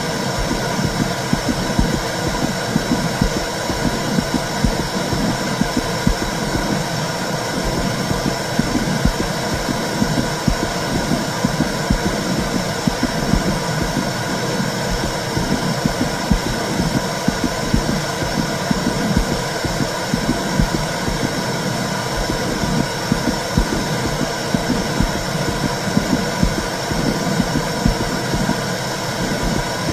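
Recorded womb sound for soothing a baby: a steady, unbroken low whooshing rumble that flickers irregularly, over a constant hiss.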